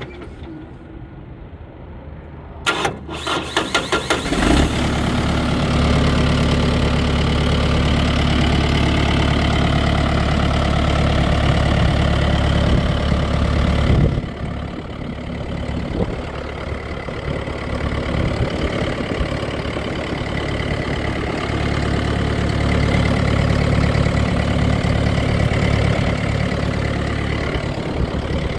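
Kubota M4-071 tractor's diesel engine cranked by the starter for about two seconds, catching and then idling steadily. The level drops a little about halfway through.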